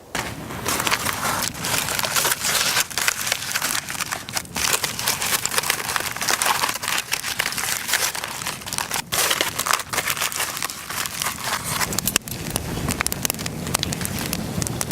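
A campfire crackling while fish cooks over it, a dense, continuous run of snaps and pops.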